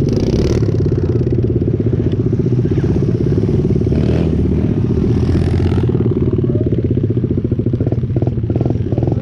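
Pit bike engine running steadily at a fairly constant speed.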